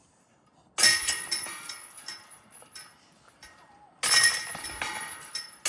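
Discs striking the hanging chains of a disc golf basket: a sudden jangling clash of metal chains that rings on and fades over about a second. It happens twice, about three seconds apart, with a third strike starting just at the end.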